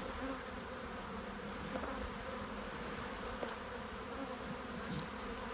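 Honey bees buzzing steadily in a dense hum around an open hive, with a few faint clicks. The colony is agitated, which the beekeeper puts down to its having no queen after swarming.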